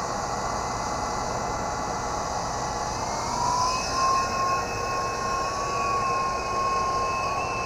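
Toys R Us Fast Lane toy RC helicopter's small electric motor and rotors whining as it spins up, the pitch rising a little about three seconds in and then holding steady, over a steady hiss.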